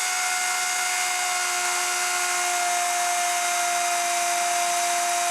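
Electric router running steadily while cutting a dado in sheet-good panels: a high motor whine over hiss, its pitch sagging slightly about halfway through.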